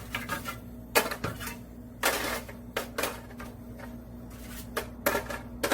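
Kitchenware clattering: a handful of sharp clinks and knocks against a tray or dish, roughly once a second.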